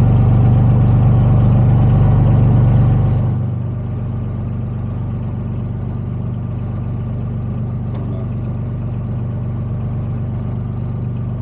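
Motorboat engine running steadily with a low hum, dropping to a quieter, lower-revving run about three seconds in, as if the throttle is eased back.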